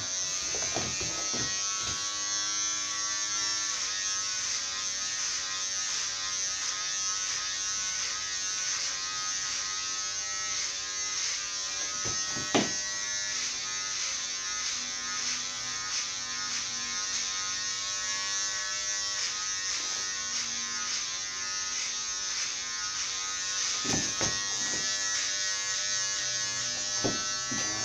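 Electric hair clipper running with a steady buzz, with a sharp click about twelve seconds in and a few knocks near the end.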